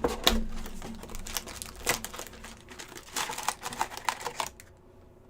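Hands tearing open the packaging of an Upper Deck Series 1 hockey card retail box: crinkling and rustling with many sharp clicks, dying down about four and a half seconds in.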